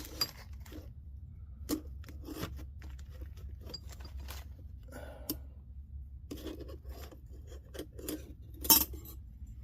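Sure-Grip limited-slip clutch plates and washers being handled and sorted by hand: scattered light scrapes, rustles and clicks of small metal parts, with one sharper click near the end.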